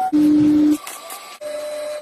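Small electric motor of a battery-powered toy whirring steadily, then cutting out abruptly and coming back quieter and at a higher pitch twice.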